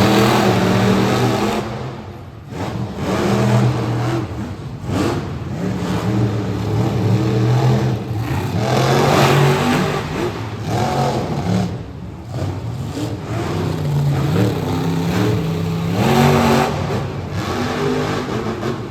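Monster truck engines revving hard while racing, the pitch climbing and dropping again and again.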